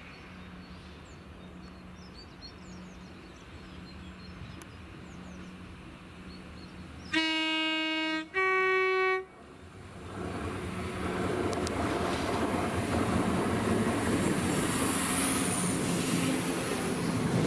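A train sounds its two-tone horn, a lower note held for about a second and then a higher note for under a second. The train's running noise then builds up and stays loud as it comes through, with a high-pitched whine over it.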